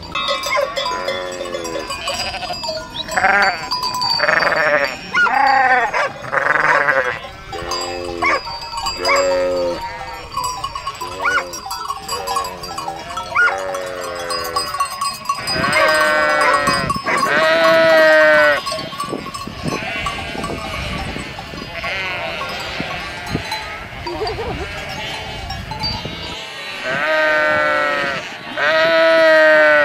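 A flock of sheep bleating: many overlapping, quavering calls of different pitches, a few loud ones close by near the middle and near the end, with a bell ringing among them.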